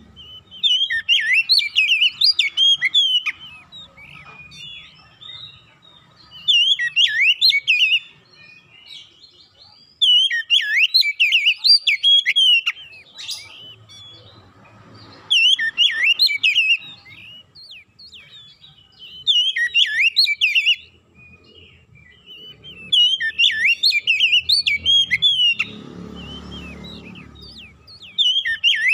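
Oriental magpie-robin (kacer) singing: repeated phrases of a few seconds each, every phrase a rapid run of varied whistled notes, with short pauses between.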